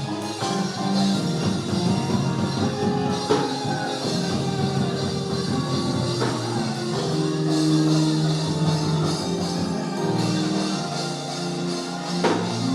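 A live church band playing, with sustained chords and a few drum hits.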